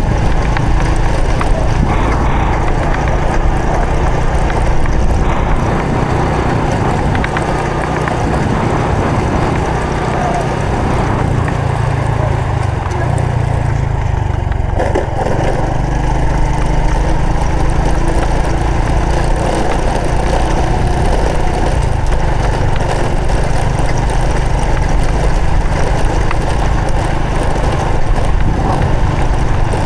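Honda Supra X 125 FI's single-cylinder four-stroke engine running steadily under way, its pitch shifting for a few seconds around the middle as the throttle changes.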